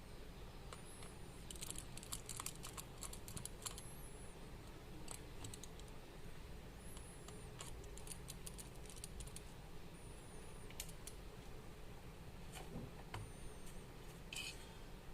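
Faint clicks and ticks of small hand tools and tiny parts against a smartphone's frame during disassembly, coming in quick runs with pauses between.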